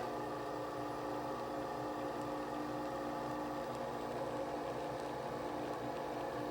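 The motor of a Nespresso coffee appliance running with a steady, even hum.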